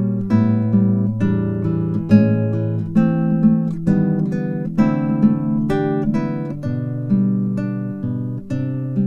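Acoustic guitar music: chords plucked and strummed at a steady pace, a new note or chord about every half second.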